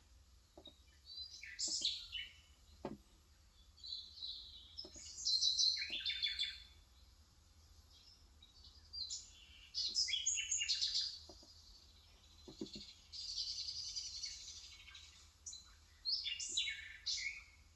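Small birds chirping and twittering in repeated quick bursts. Between the calls there are a few soft, isolated keystrokes on an electro-capacitive (Topre-style) keyboard.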